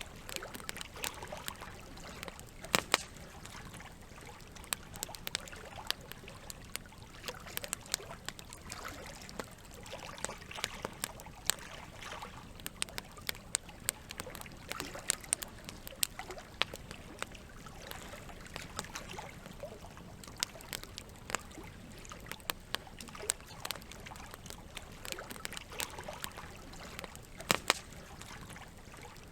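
Wood campfire crackling, with frequent sharp pops and snaps and two louder cracks, about three seconds in and near the end, over a steady background of running water.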